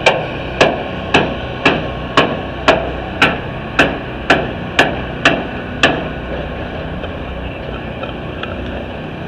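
A hammer striking a demolition derby car in steady blows, about two a second, a dozen in all, stopping about six seconds in.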